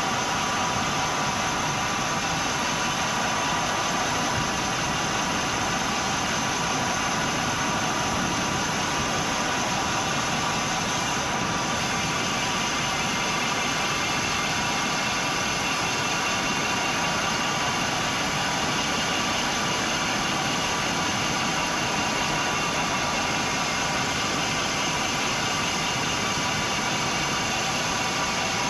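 Steady rushing noise of a moving bicycle, with wind on the action camera's microphone and tyre hum on the road, and a faint steady whine above it.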